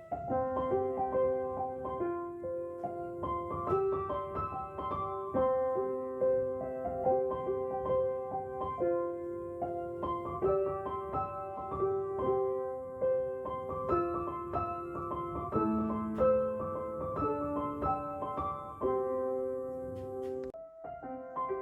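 Background piano music, a gentle melody of sustained notes over a steady accompaniment.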